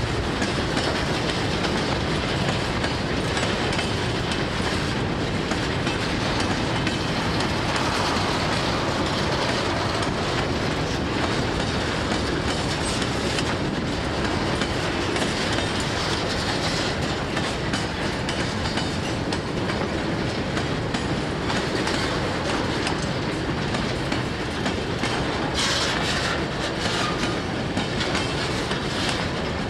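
Freight train cars rolling past steadily, their wheels clicking and clacking over the rail joints.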